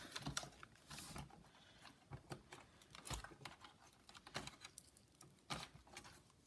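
Faint, irregular clicks and rustles of hands handling a laptop's insides: cables being routed and tucked through the plastic chassis, with light taps of plastic on plastic.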